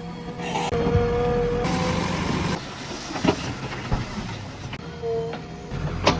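JCB 3DX backhoe loader's diesel engine running under load, with a steady whine and sharp metallic clanks about three seconds in and several more near the end.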